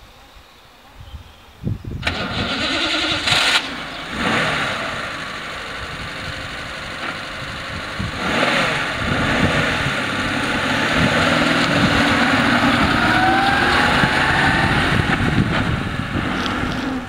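1938 Mercedes-Benz 230 (W143) straight-six engine starting about two seconds in, then running. Its pitch rises late on as the car pulls away.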